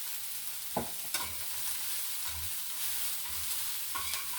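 Onions and green pepper frying in oil in a pan, with a steady sizzle, while a spoon stirs them in strokes about once a second, with a few light knocks against the pan.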